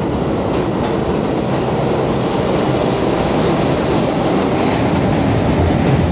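Subway delivery train carrying a set of new R179 cars running through the station, a steady noise of wheels on rails.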